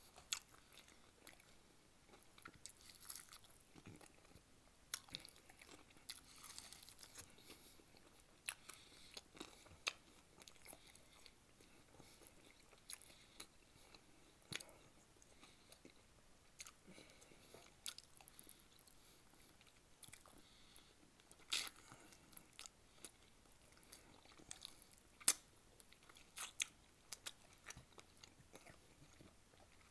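Close-miked chewing and biting on sauced chicken wings: scattered soft clicks and smacks from mouth and food, with two sharper snaps in the last third.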